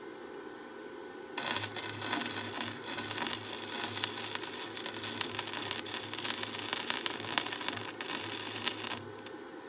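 Electric arc welding on steel: a crackling weld arc strikes about a second and a half in and burns steadily, with a brief break near eight seconds, then stops near the end, over the welding machine's steady hum.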